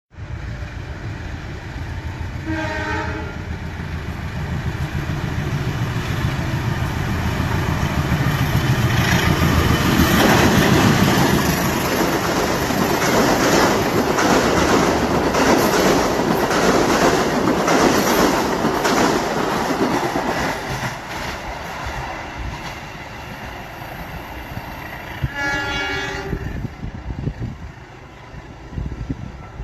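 A train passing: its horn sounds briefly near the start, then the wheels clatter rhythmically over the rail joints, growing louder to a peak in the middle and fading away. The horn sounds again near the end.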